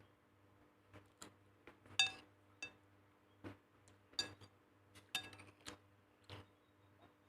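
Kitchenware clinking: about a dozen irregular light knocks and clinks of utensils against dishes, a few with a brief ring, the loudest about two seconds in, over a faint steady hum.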